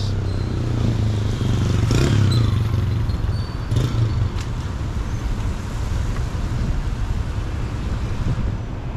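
Steady city street traffic, with a vehicle passing close about two seconds in.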